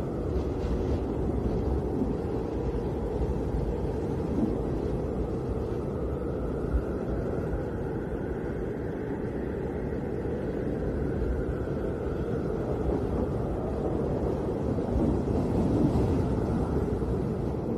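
Blizzard wind blowing steadily: a deep rushing noise with a faint whistle that rises and falls, swelling in a gust near the end.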